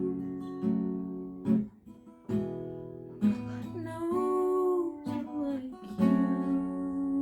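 Acoustic guitar strumming slow chords, each left to ring out before the next strum.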